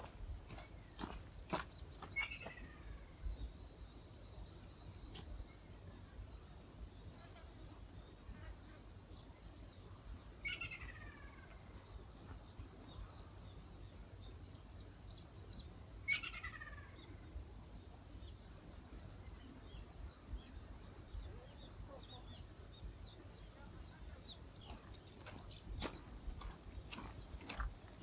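Steady high-pitched insect buzzing in the open air, with a bird giving a short falling call three times. A few faint ticks come in the first seconds.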